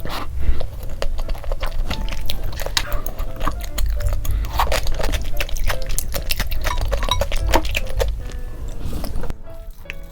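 Close-miked mukbang eating sounds: chewing and mouth noises of spicy ramen and rice porridge, with many sharp small clicks of utensils and bowl. The eating stops about nine seconds in, leaving soft background music.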